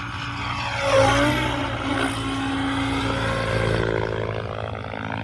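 Radio-controlled helicopter flying a hard aerobatic manoeuvre, its motor and rotor pitch swinging up and down, loudest about a second in.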